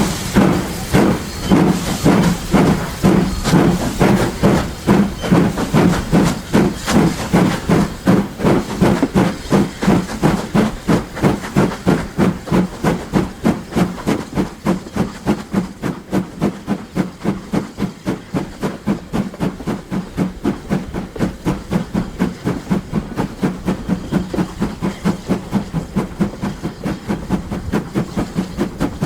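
Steam locomotive working, its exhaust beats chuffing in a regular rhythm that slowly quickens and fades as it pulls away.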